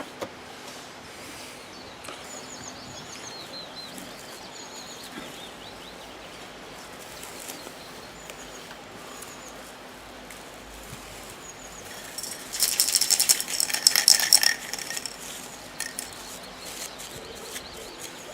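Small birds chirping in the background, then about twelve seconds in a loud burst of crackling and ripping, lasting about two seconds, as plastic wrapping material is pulled off its roll to mask the quivertips.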